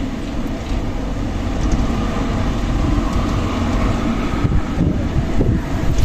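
Strong wind blowing in steady gusts, a deep rumbling roar with wind buffeting the microphone.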